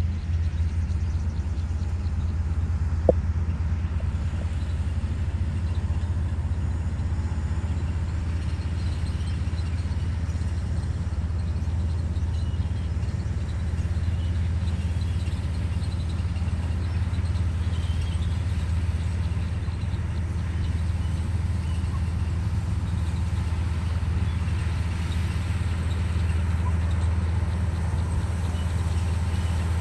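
Komatsu D58E bulldozer's diesel engine running steadily as the machine works, with a single sharp click about three seconds in.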